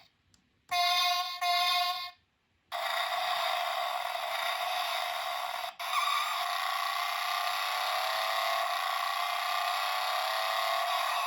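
Road Rippers Bone Saw toy monster truck's built-in sound effects, played thinly through its tiny speaker. Two short tones come about a second in, then after a brief pause a long sustained effect begins, its pitch slowly rising.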